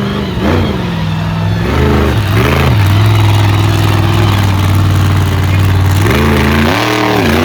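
Monster truck engine revving hard: short rises and falls in pitch at the start, a long steady high run in the middle, then another rev up and back down near the end.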